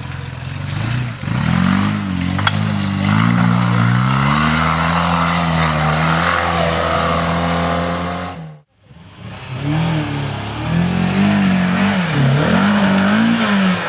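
Off-road 4x4 engine revving hard, its pitch rising and falling as the throttle works under load. The sound breaks off abruptly about two-thirds of the way through, then an engine revs again in quick rises and falls.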